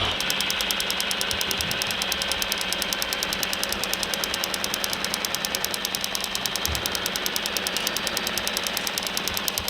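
Engine sound of an RC construction machine: a steady, fast, even knocking pulse, like a diesel idling.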